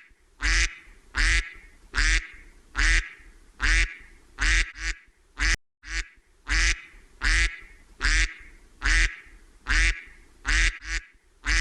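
A duck quacking over and over in a steady series, a little more than one quack a second. There is a short sharp click about halfway through.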